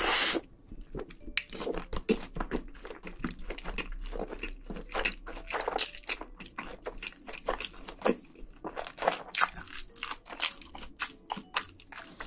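Close-miked chewing of a mouthful of cheese kimbap dipped in spicy tteokbokki sauce: a quick, irregular run of wet smacks and soft crunches.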